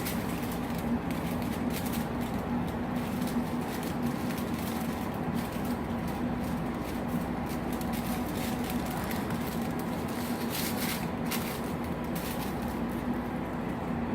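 Steady room hum from an air conditioner, with a few faint short rustles and clicks of handling scattered through it.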